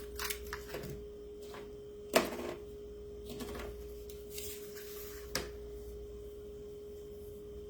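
Light handling of craft supplies: a few rustles and soft taps, with a sharp tap about two seconds in and another about five seconds in, over a steady faint hum.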